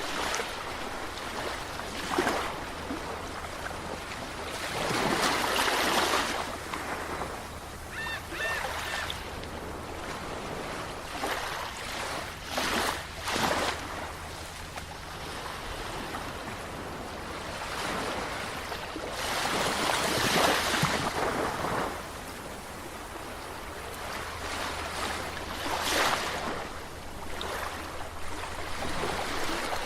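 Sea waves washing ashore, each rush of water swelling and falling away every few seconds, with the larger surges about 5, 13, 20 and 26 seconds in.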